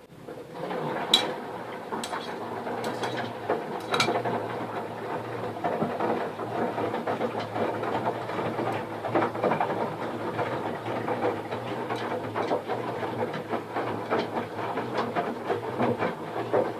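LG F1296HDS1 direct-drive front-loading washing machine running on its Intensive 60 wash programme: a steady mechanical hum with irregular clicks and knocks, the sharpest about a second in and around four seconds in.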